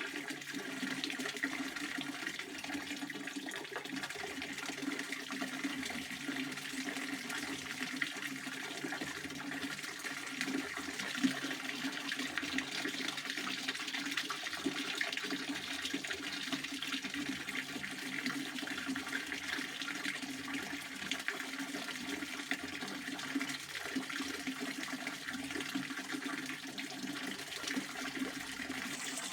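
Pond water fountain splashing steadily: a continuous rush of falling water.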